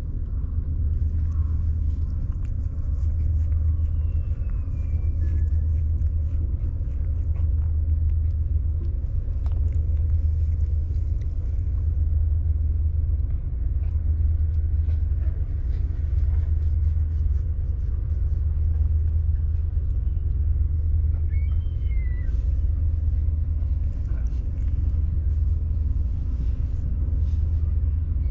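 Steady low rumble that swells gently about every two seconds, with a few faint high chirps now and then.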